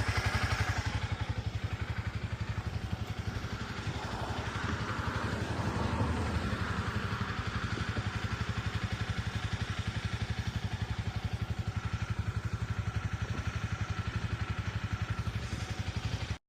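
Motorcycle engine idling, an even, rapid pulsing beat at a steady level; it cuts off abruptly near the end.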